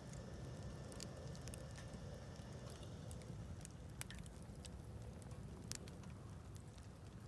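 Wood campfire burning with scattered sharp crackles and pops, the loudest a little before six seconds in, over a low steady rumble.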